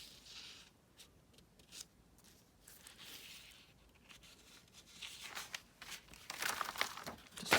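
Paper rustling and crinkling as a sheet is handled, rubbed with a glue stick and pressed down onto another, with short scattered strokes that grow denser and louder in the last few seconds.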